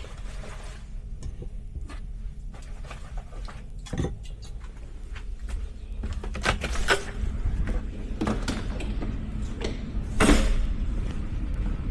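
Scattered knocks and clicks over a steady low rumble, with a louder thump about four seconds in and another about ten seconds in.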